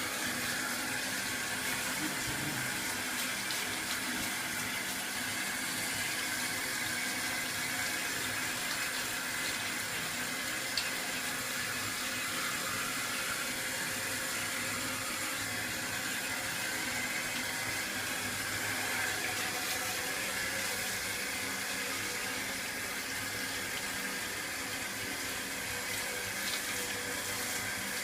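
Shower water running steadily, an even unbroken rush.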